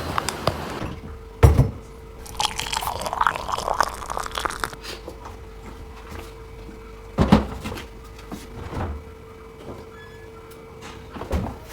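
Household handling indoors: three sharp knocks with light clattering between them, over a faint steady hum that starts with the first knock and stops at the last.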